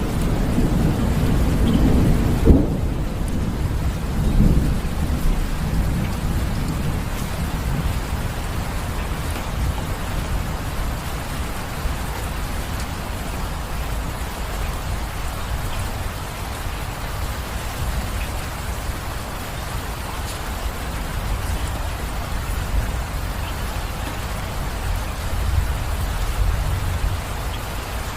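Steady rain falling in a thunderstorm, with thunder rumbling over the first few seconds and a sharp crack about two and a half seconds in.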